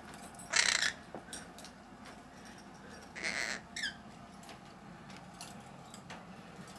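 Pet parrot giving a few short squawks and chirps: one about half a second in, another around three and a half seconds in followed by quick high chirps, with a few faint clicks between.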